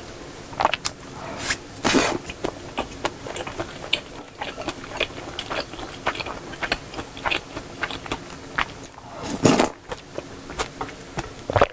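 Close-miked chewing of a mouthful of shrimp fried rice, with many small wet mouth clicks and smacks. A louder, longer mouth sound comes about two seconds in and again near the end.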